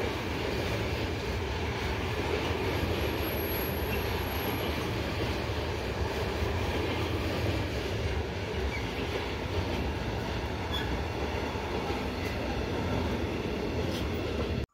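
Freight train's container flat wagons rolling past at speed: a steady rumble of steel wheels on the rails, with a faint high squeal for about two seconds near three seconds in.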